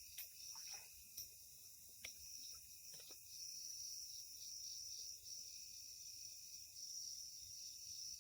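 Faint, steady high-pitched chorus of night insects, with a few soft clicks in the first three seconds.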